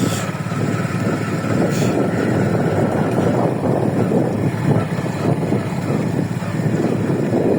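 Steady low rumble of a running vehicle, with two brief clicks in the first two seconds.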